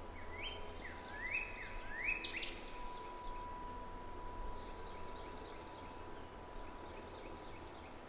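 A bird calling a quick series of about five rising notes, ending in a sharp high sweep about two seconds in, over outdoor background noise with a faint steady tone. Fainter, higher bird calls follow later.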